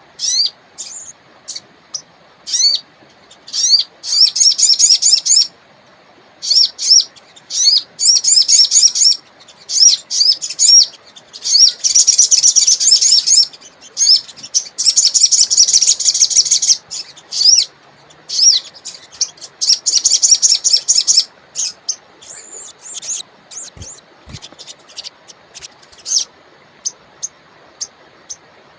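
Sogon songbird calling: rapid series of short, high, rising chirps in bursts of a second or two with brief gaps, the densest runs about the middle.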